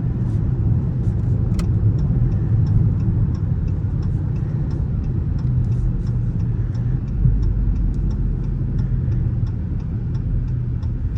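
Dodge Charger R/T's 5.7-litre Hemi V8 running steadily with road rumble, heard from inside the car. A faint, regular ticking sits above it, about two or three ticks a second.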